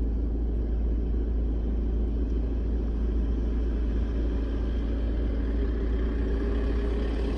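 Four-wheel-drive vehicle driving on a dirt track, with a steady low rumble of engine and drive noise. The engine note comes through more clearly near the end.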